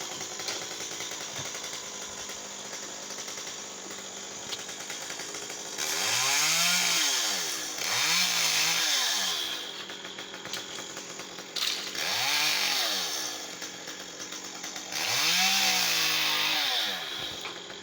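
Chainsaw running at a low steady speed and revved up four times, each rev lasting one to two seconds, its pitch rising and then falling back.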